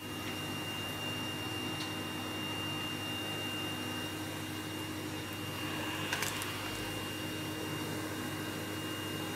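Vacuum cleaner running steadily, a constant motor hum under a thin high whine. A brief sharp click about six seconds in.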